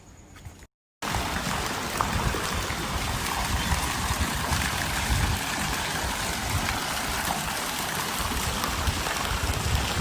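Steady rushing noise with uneven low rumbling bumps, starting abruptly after a short dropout to silence about a second in.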